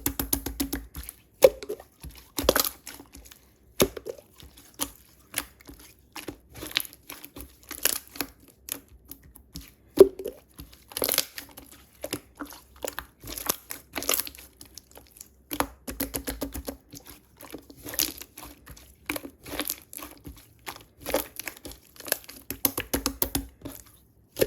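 Crinkly material being squeezed and handled by hand close to the microphone: irregular crinkling and crackling made of many short, sharp clicks, with a few louder snaps.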